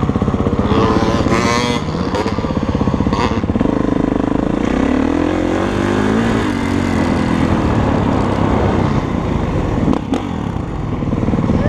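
Dirt bike engine running hard while riding, its pitch climbing and dropping as the throttle opens and closes. A sharp knock comes about three seconds in and another near the end.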